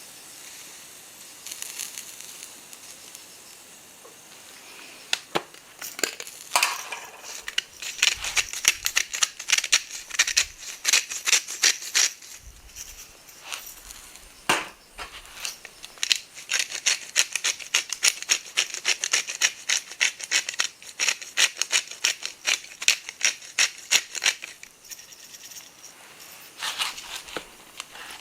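Fire in a fire-pit stand crackling and popping with yakitori chicken skewers grilling over it, with a faint sizzle underneath. The pops come in two long, dense spells, with quieter sizzling at the start, around the middle and near the end.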